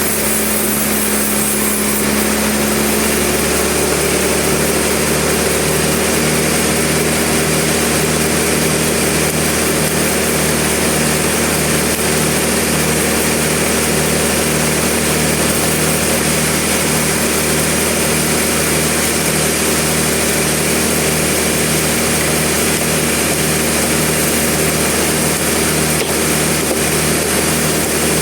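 Sawmill machinery running steadily with a loud, unbroken engine drone and a hiss across the highs; one of its low tones drops out about two seconds in.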